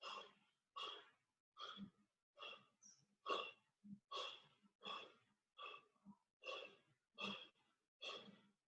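A person breathing hard and rhythmically through flutter kicks, a short breath about every 0.8 seconds, faint.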